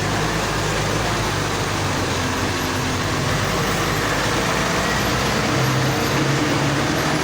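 Excavator's diesel engine running steadily under load, its low hum shifting pitch a few times.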